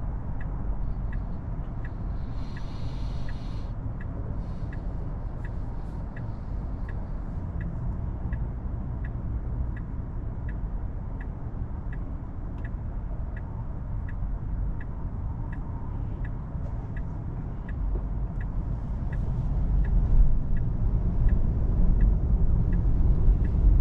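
Heard from inside the cabin, a car's turn-signal indicator ticks steadily, about 1.4 times a second. Under it runs the steady tyre and road rumble of a Tesla Model 3 on a wet road, which grows louder near the end. A brief hiss comes about three seconds in.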